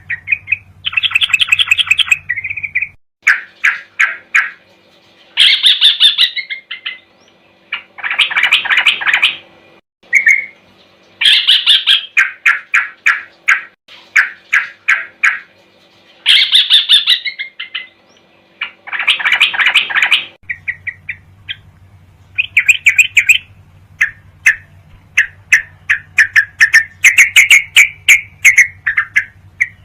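Recorded song of the trucuk (yellow-vented bulbul), a masteran track for training caged birds. Loud bursts of rapid chattering trills, each about a second long, repeat every couple of seconds, and after about twenty seconds give way to shorter chirps and whistles.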